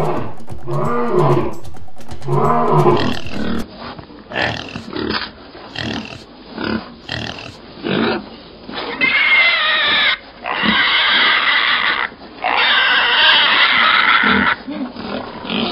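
A lion roars twice. Then, about four seconds in, pigs start grunting in short sounds and break into three long, high squeals near the end.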